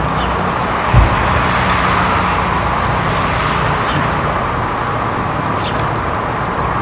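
Steady rumble of distant road traffic with faint, scattered small-bird chirps. A single low thump about a second in.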